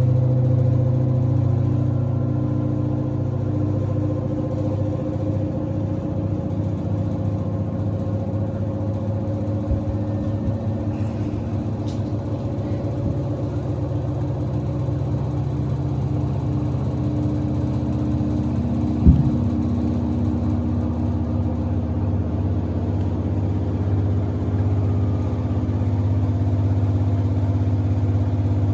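Samsung WD70T4047CE washing machine running mid-cycle: a steady motor hum and whine as the drum turns, with one sharp knock about two-thirds of the way through.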